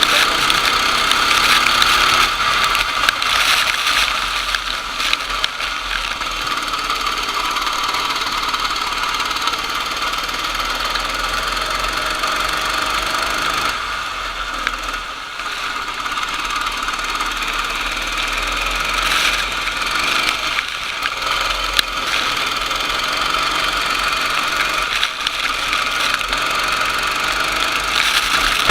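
Racing kart engine running at a steady high note, with a brief drop in loudness about halfway through.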